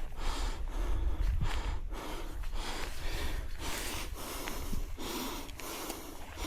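A person breathing hard and fast, about two breaths a second, over a low rumble of wind on the microphone.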